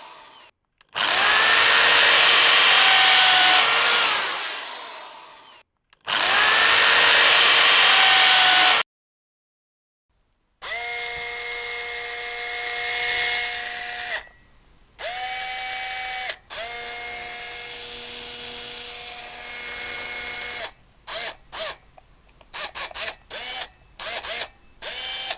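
Electric drill sound effects. Two bursts of a drill running at full speed come first: the first winds down and the second cuts off sharply. After a short silence a drill motor whines steadily, stopping briefly twice, then starts and stops in a quick series of short trigger pulses near the end.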